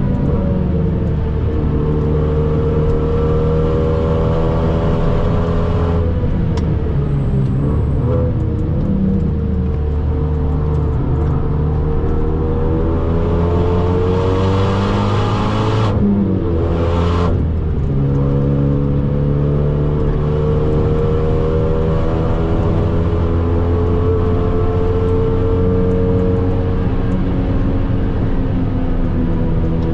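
Renault Mégane R.S. 265's 2.0-litre turbocharged four-cylinder, tuned to about 340 hp, heard from inside the cabin under hard load at track speed. Its note climbs slowly through long pulls, with a brief break and change in pitch about halfway through.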